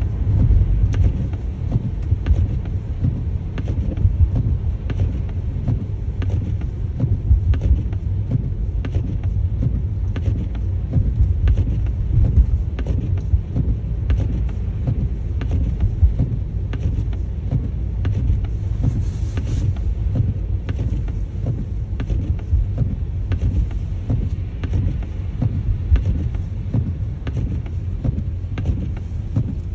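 Steady low road and engine rumble heard inside a car's cabin while driving slowly on a snow-covered road, with faint, evenly spaced ticks.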